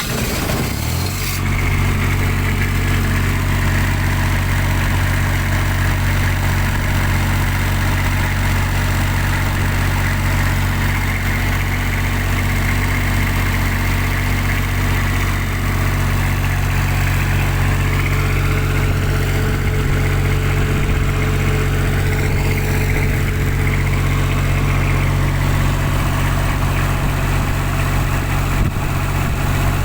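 Kubota diesel engine on a light tower coming up to speed about a second in, then running steadily at a constant speed.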